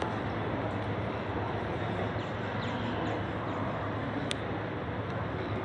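Steady rumble of rail-yard and city background, with a distant Alstom X'Trapolis electric suburban train running away over the tracks. A constant low hum lies underneath, and there is one sharp click about four seconds in.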